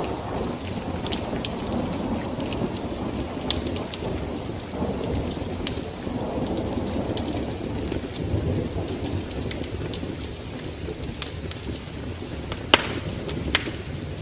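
Wood fire burning in a fireplace: a steady low rush of flames with scattered sharp crackles and pops, two louder pops near the end.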